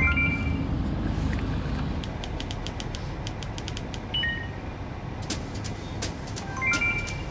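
Steady car noise heard from inside the cabin, with many sharp, irregular clicks from about two seconds in and a few brief high beeps.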